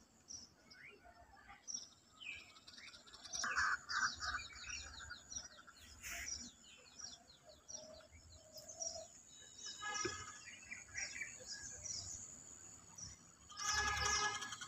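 Several birds chirping and calling: many short chirps and quick trills, with a louder, harsher call near the end.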